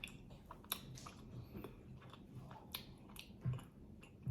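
Mouth chewing a thick, sticky peanut butter and jelly sandwich: quiet, irregular wet smacks and clicks.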